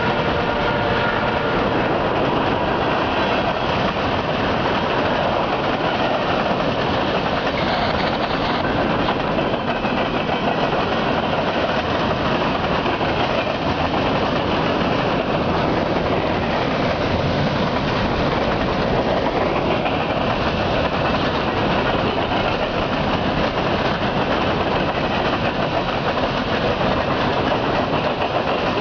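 Coal gondolas of a freight train rolling steadily past close by: continuous noise of steel wheels running on the rails.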